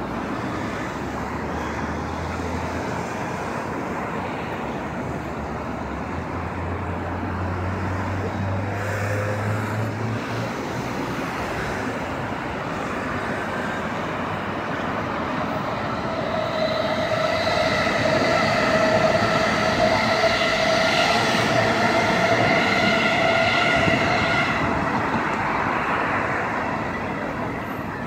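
Electric commuter train on the Tokaido Line approaching and passing, its noise growing steadily louder and then fading. While it passes, a steady high-pitched whine holds at one pitch for several seconds.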